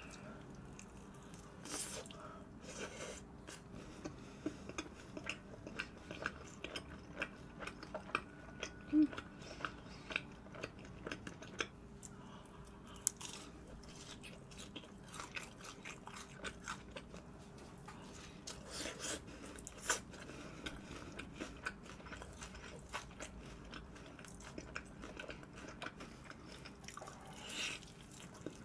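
Close-miked eating of fried food (fried chicken and fried balls): a continual run of crisp crunches and wet chewing clicks, with a louder crunch near the end as a piece of fried chicken is bitten into.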